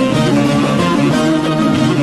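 Instrumental break in a Turkish folk song (türkü): plucked string instruments playing a running melody, with no singing.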